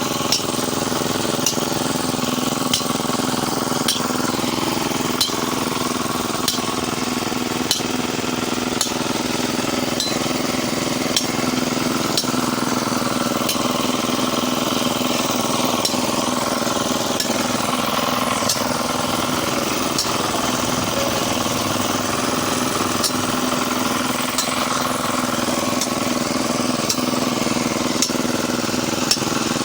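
Small engine running steadily, with a sharp click about every second and a quarter.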